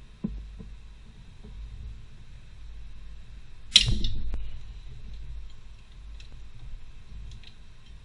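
A single sharp knock about four seconds in that trails off over about half a second, with a few faint clicks before it, over a low steady hum.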